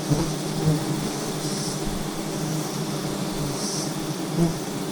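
Swarm of giant honey bees buzzing steadily around the hive, with a short high hiss repeating about every two seconds.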